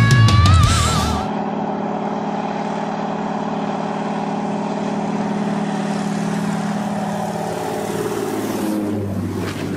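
About a second of music ending in a sudden cut, then an engine running at a steady drone, its pitch sinking slightly near the end.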